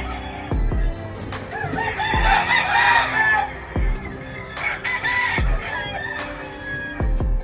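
Gamefowl rooster crowing, the longest crow about two to three seconds in, with shorter calls near the five-second mark, over background music with a regular kick-drum beat.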